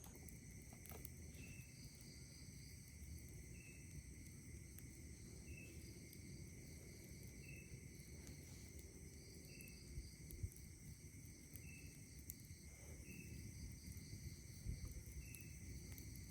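Night insects calling: several steady high-pitched trills of crickets, with a short chirp repeating about every two seconds. Faint and low, over a soft low rumble and a few faint clicks.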